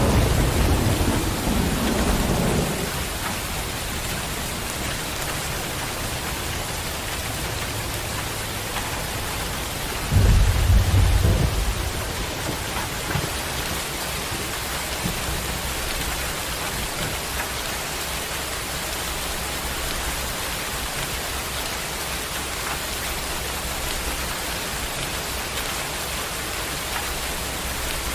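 Heavy rain pouring steadily, with a deep rumble of thunder at the start and another, shorter one about ten seconds in.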